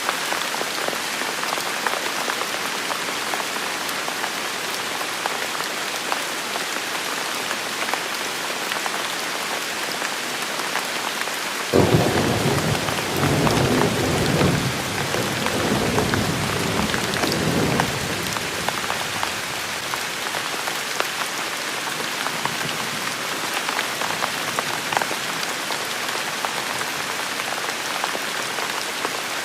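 Steady rain falling on hard surfaces. About twelve seconds in, thunder breaks in suddenly and rumbles in several waves for about six seconds before fading back under the rain.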